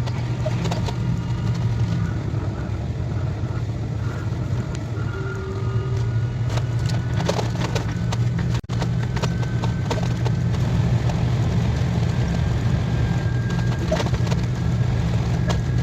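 KTX high-speed train running at speed, a steady low rumble with scattered clicks and rattles; the sound cuts out for a moment about halfway through.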